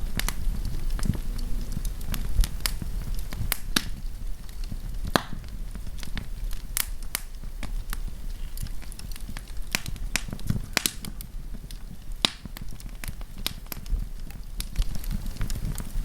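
Wood campfire burning and crackling: sharp irregular pops and snaps, a few louder ones, over a low steady rumble of the flames.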